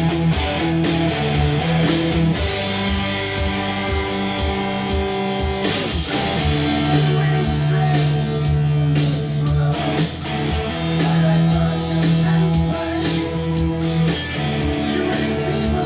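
Electric mandola played through a 1-watt Marshall JTM145 valve amp pushed hard, with sustained distorted notes, over a heavy-metal backing record with a steady drum beat.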